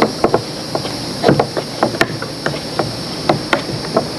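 Irregular sharp knocks and taps, a few a second, as fresh herbs such as cilantro are worked for a chimichurri-style marinade, over a steady high drone of insects.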